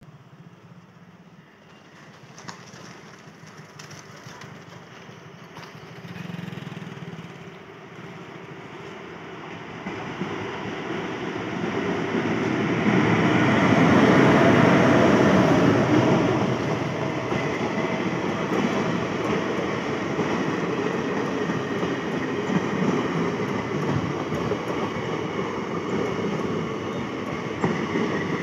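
Electric-locomotive-hauled passenger train approaching and passing close by on the rails. It builds from faint to its loudest about halfway through as the locomotive goes past, then gives way to a steady rumble and clatter of coaches rolling by.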